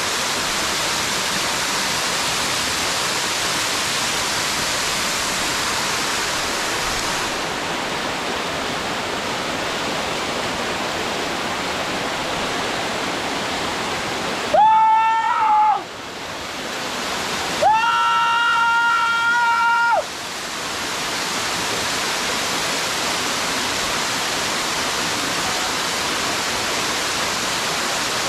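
Waterfall rushing steadily into a stream. About halfway through, the water noise drops out twice while two held high, steady tones sound, the first about a second long and the second about two seconds, each rising quickly into pitch at its start.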